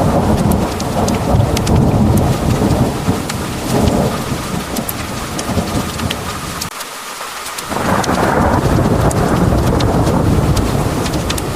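Heavy rain pouring down with thunder rumbling through it, the patter broken by sharp drop ticks. The rumble dies away for a moment past the middle, then a fresh roll of thunder builds about eight seconds in.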